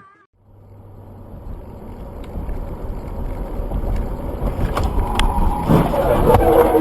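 Vehicle driving noise, a low rumble of road and wind on the microphone that grows steadily louder, with a couple of sharp clicks about five seconds in and a brief pitched sound near the end.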